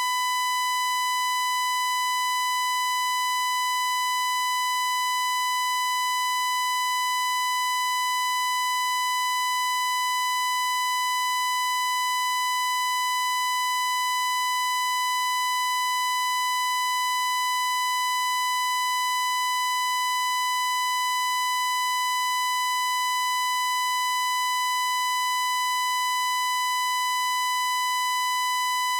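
A continuous high electronic tone, buzzy with many overtones, held perfectly steady in pitch and loudness without a break.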